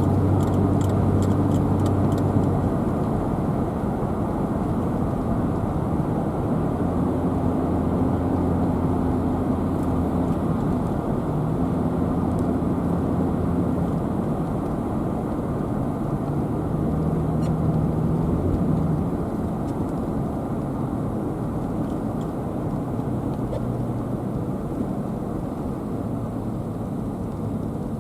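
Car driving on the road: a steady rush of engine and tyre noise, the engine's hum shifting up and down in pitch several times. A few faint ticks in the first two seconds.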